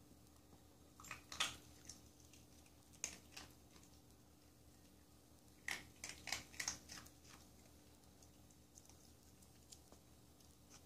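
Puppy chewing dry dog food: faint, short crunches in a few bouts, about a second in, around three seconds, and a closer cluster around six to seven seconds.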